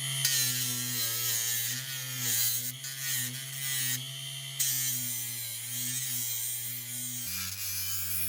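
A small electric motor tool buzzing steadily, with a rough hiss over it. Its pitch drops about seven seconds in. Background music plays underneath.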